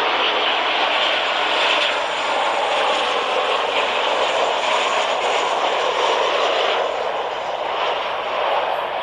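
Airplane on landing approach passing close by: a loud, steady rush of engine noise that begins to fade near the end.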